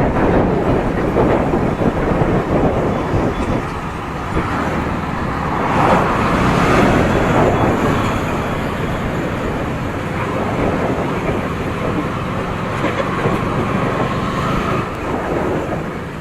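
Motorcycle riding in road traffic: steady engine, wind and road noise with passing vehicles, swelling and easing a few times.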